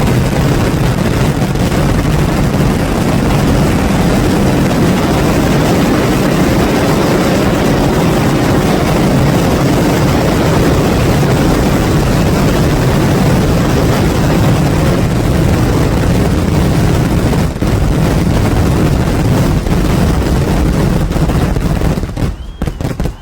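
Daytime fireworks barrage: a dense, continuous run of firecracker explosions merging into one loud steady roar, which breaks into separate bangs near the end.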